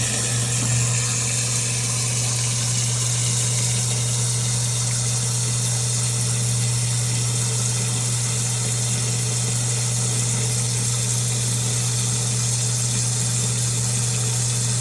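Zoeller half-horsepower sump pump running and pumping water: a steady, unbroken motor hum with a rushing hiss over it.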